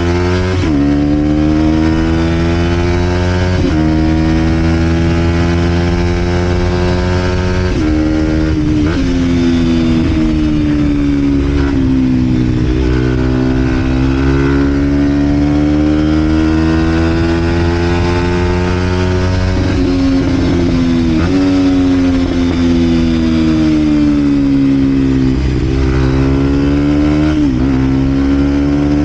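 Vent Derapage 125 four-stroke motorcycle with a full Scalvini exhaust being ridden. The engine note climbs through each gear and drops briefly at the shifts, again and again, with stretches of steadier cruising in between.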